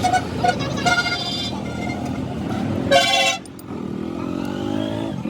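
Vehicle horns honking over road traffic: one honk about a second in and another near three seconds. After them an engine's note rises in pitch.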